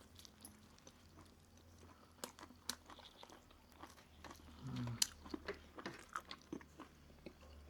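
Close-miked chewing of crispy-skinned roast chicken: faint, irregular crunches and mouth clicks, with a short low hum about five seconds in.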